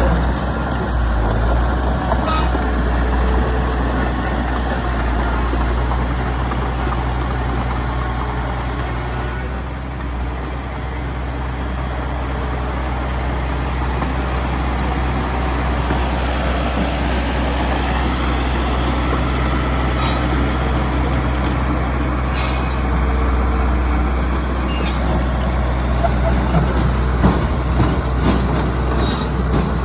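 Diesel engine of a Komatsu D31PX crawler bulldozer running steadily with a deep drone, easing off slightly about a third of the way in, with a few short clicks or knocks scattered through.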